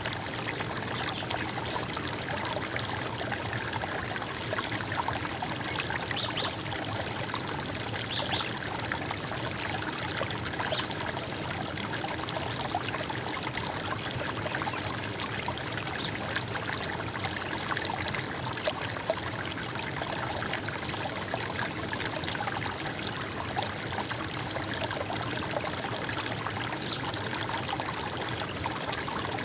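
Running water trickling and gurgling steadily, an unbroken babbling flow.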